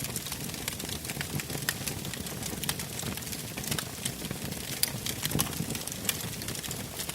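Fire burning in a fireplace, crackling with irregular sharp pops over a low steady rumble of flame.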